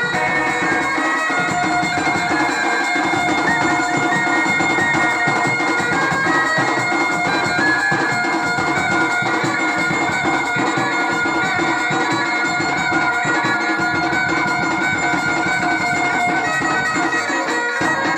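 Wedding band music: a loud, reedy double-reed wind instrument plays a sustained melody over steady drumming.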